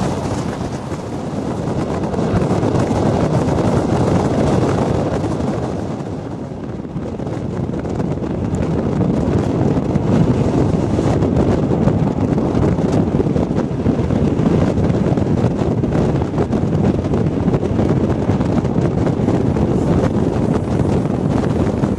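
Passenger train running at speed, heard from inside the carriage: a steady, loud running noise that dips briefly about a second in and again around six seconds in.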